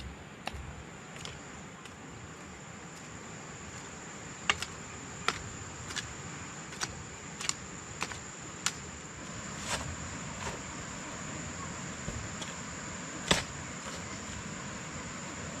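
Steady high-pitched insect drone. About ten sharp knocks fall over it, roughly one every half-second to second for a few seconds from about a third of the way in, with a single loudest knock near the end.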